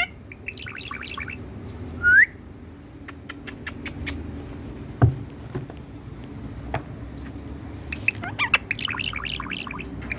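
Pet parrot chirping and squawking in short bursts: quick chirps at the start, one loud rising call about two seconds in, and a fresh run of rapid chirps near the end. A few sharp clicks and a dull thump fall in the quieter middle.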